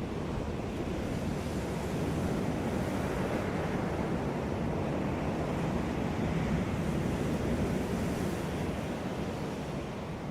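Ocean surf on a beach: a steady rush of breaking and washing waves, swelling a little through the middle and easing near the end.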